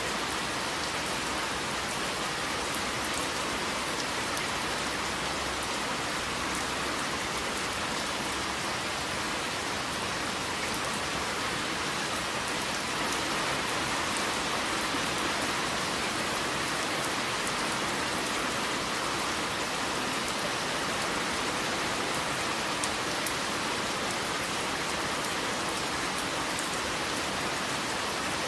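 Steady rain falling on a surface, an even hiss with fine drop patter.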